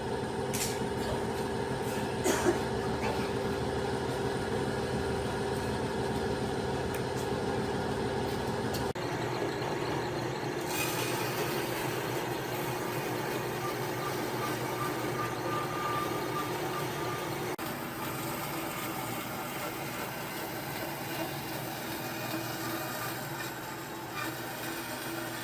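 A workshop machine running steadily with a few held tones. About nine seconds in the low rumble drops away, and soon after a high hiss comes in.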